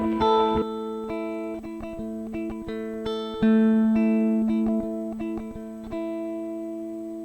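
PRS CE24 electric guitar played through a passive DI box: picked notes and chords left to ring, with a louder note about halfway through and the last notes fading near the end.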